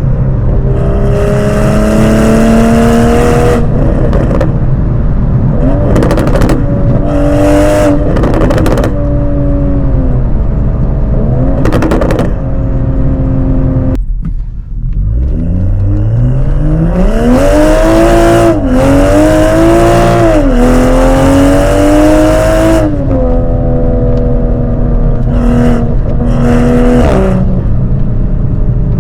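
Toyota GR Supra with an aftermarket Dinan exhaust and catted downpipe, accelerating hard through the gears. The revs climb and drop at each upshift; the throttle is eased off about halfway through, then a second hard pull with quick shifts settles into steadier running.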